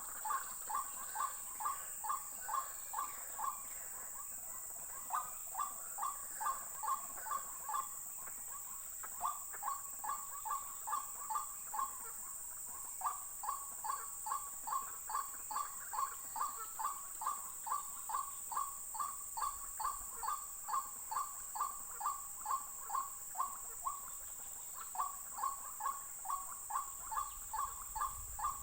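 White-breasted waterhen calling: a long series of short repeated notes, about two a second, broken by brief pauses every few seconds.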